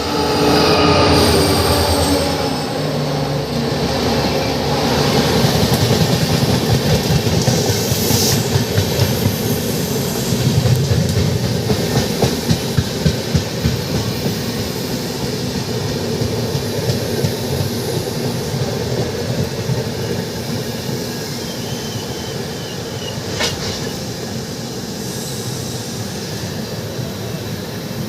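Avadh Assam Express passenger train running on the track: a continuous rumble of wheels and coaches with a rhythmic clatter over the rail joints midway through, growing gradually quieter toward the end.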